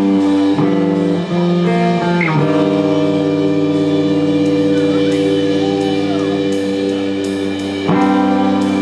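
Live band playing psychedelic blues-rock: sustained electric guitar chords over drums, the chord changing a few times.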